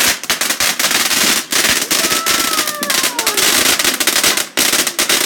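Large firework going off in a fast barrage of loud bangs and crackles, with a falling whistle about two seconds in. It is very loud.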